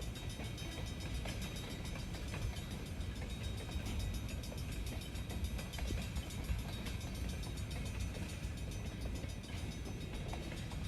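A train rolling along the rails: a steady, even rumble with faint clicking all through.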